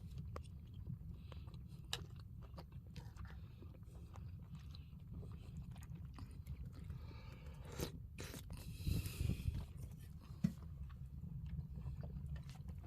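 A person eating: chewing, with small clicks and scrapes of eating, over a low steady hum. There is a louder scrape about nine seconds in.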